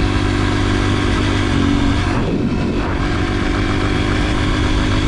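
Yamaha TT-R125 dirt bike's single-cylinder four-stroke engine running under way at a steady speed. The engine note drops and wavers briefly a little over two seconds in, then holds steady again.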